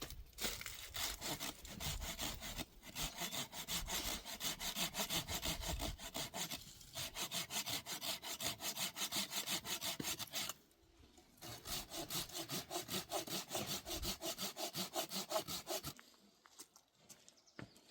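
Hand saw cutting firewood in quick back-and-forth strokes, several a second, in runs with short pauses; the sawing stops a couple of seconds before the end.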